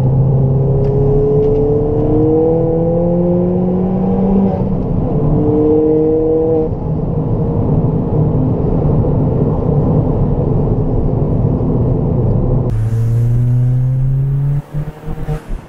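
Ford Fiesta ST's turbocharged four-cylinder engine, fitted with a Revo RT330 turbo upgrade, heard from inside the cabin under hard acceleration: the engine note climbs, drops back with a gear change about four and a half seconds in, and climbs again. It then settles into a steady drone with road noise, and near the end another rising engine note comes through with uneven dips in loudness.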